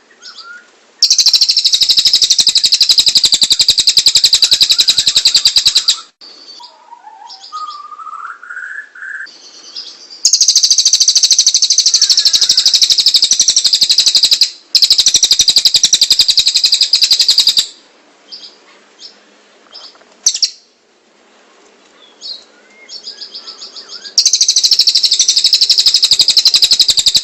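Tengek cililin bird singing in long, loud bursts of a very fast, high-pitched trill lasting several seconds each, four times over, with softer calls and a short rising whistle in the gaps between.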